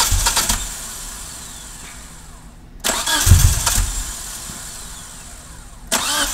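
A 1G DSM's engine is cranked on the starter with rhythmic pulses. It briefly catches, then fades away and dies, and this repeats, with sudden new attempts twice. It is a hard start, which the owner puts down to a rich fuel-air mixture.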